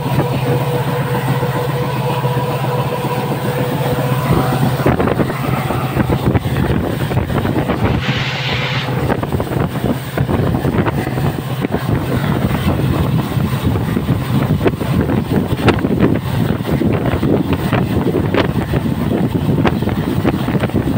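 Passenger train running at speed, heard from an open coach door: wind rushing over the microphone with the rumble of the wheels, which knock repeatedly over the rail joints in the second half. A steady hum runs under it for the first few seconds.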